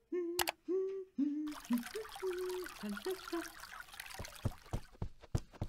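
A woman humming a tune in held notes while water pours from a jug into a plant pot. The humming stops a little past halfway, and several sharp clicks follow near the end.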